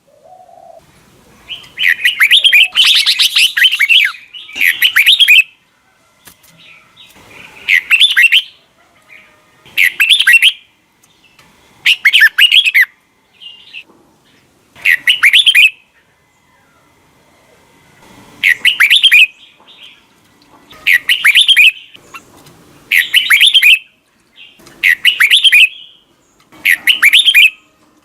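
Red-whiskered bulbul singing: short, loud phrases of warbling song repeated about every two seconds, with a longer run of song about two seconds in.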